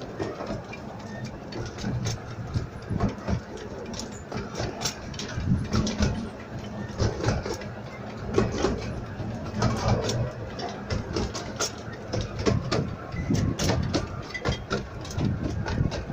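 Fairbourne Railway's 12¼-inch-gauge miniature steam train running, a steady low rumble with frequent irregular clicks and clatter from the wheels on the track.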